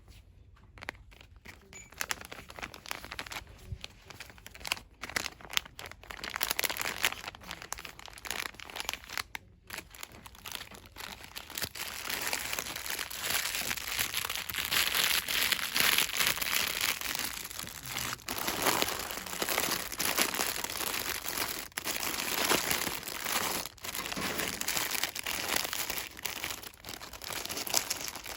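Fast, aggressive hand rustling and crinkling of cosmetics packaging, sparse and lighter at first, then dense and continuous from about halfway in.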